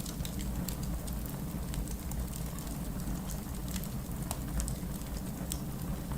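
Steady rain mixed with a crackling wood fire: a constant low rumble and hiss, dotted with many short, sharp pops.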